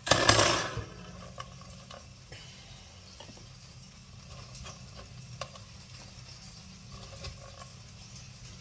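Kebab wrap frying in a hot oiled pan under a weighted plate: a faint steady sizzle with scattered small pops and ticks. A brief loud noise right at the start.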